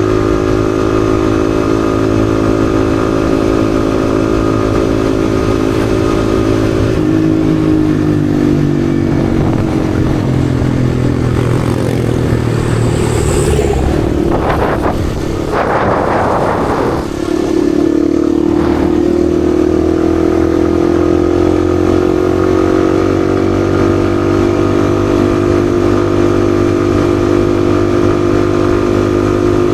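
Yamaha XSR155's single-cylinder engine running steadily while riding. About halfway through the engine note drops away under a short rush of noise, then comes back and climbs gradually as the bike accelerates again.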